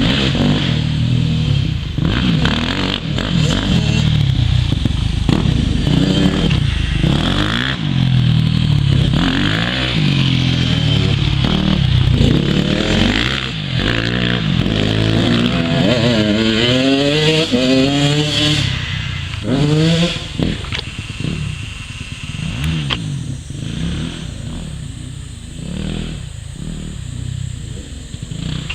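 Several motocross bikes racing on a dirt circuit, their engines revving up and down through gear changes. One bike's engine is heard clearly climbing in pitch a little after midway, and the sound gets quieter in the last third.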